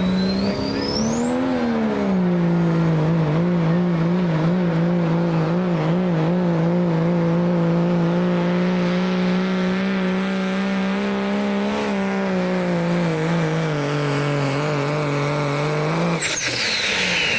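Work stock diesel pickup pulling under full throttle: the engine runs hard, its pitch wavering a few seconds in, while the turbocharger whistle climbs to a high steady whine. Near the end the throttle is let off, the engine note drops and the turbo whine winds down, marking the end of the pull.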